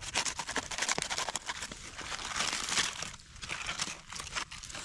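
A wrapping around cooked food crinkling and crackling as it is pulled open by hand, with a denser stretch of crinkling about halfway through that then thins out.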